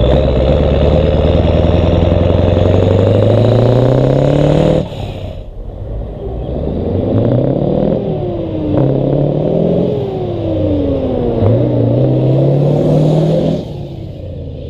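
Scania 143's V8 diesel engine with a loud open exhaust, pulling hard with its pitch climbing steadily for about five seconds before the throttle is suddenly cut. It then climbs and falls in pitch several times over the next eight seconds, and the throttle is cut again about a second before the end.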